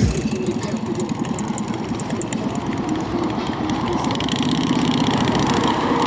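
Motorcycle engine running steadily, its firing pulses coming in a fast, even stream.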